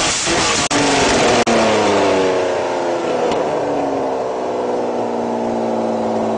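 Mercedes-Benz M103 straight-six engine running with no exhaust manifold fitted, its note slowly falling in pitch after the first second and a half. Two very brief cut-outs break the sound near the start.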